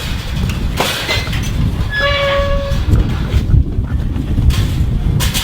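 Wind buffeting the microphone in a loud, constant low rumble, with a few knocks. About two seconds in, a short held call with a steady pitch sounds for under a second.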